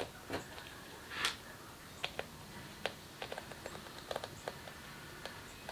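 Handling of the vinyl enclosure material and small tools: a couple of short rustles near the start, then scattered light clicks and taps.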